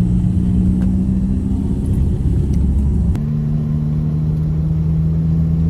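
A motor vehicle's engine running steadily with a low hum; its pitch drops a little about three seconds in.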